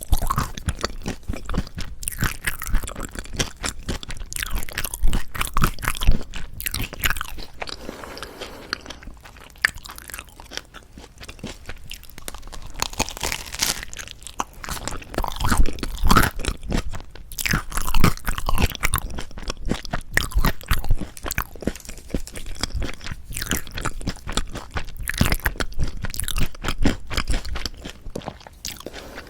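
Close-up crunchy chewing of a toasted Korean salad bread with a crispy, slightly burnt crust: repeated crackling bites and chews, quieter for a few seconds partway through and then louder crunching again.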